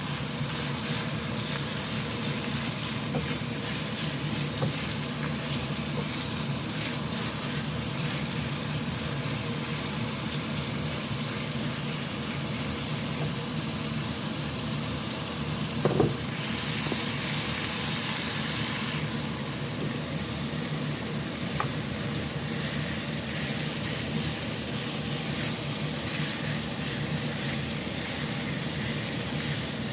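Bite-size chicken breast pieces sizzling steadily as they sauté in a pan until golden brown. There is a single knock about halfway through, and the hiss grows briefly brighter just after it.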